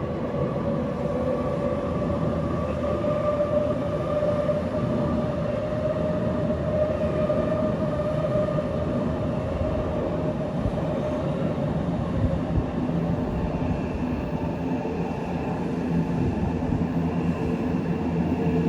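Electric commuter train running close by: steady rumble of wheels on rail with a sustained motor whine made of several steady tones that shift in pitch partway through.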